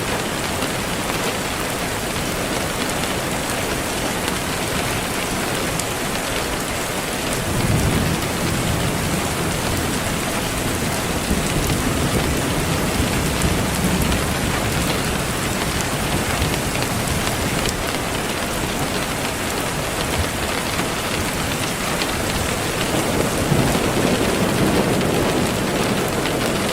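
Steady heavy rain, with low rolls of thunder swelling about eight seconds in and again near the end.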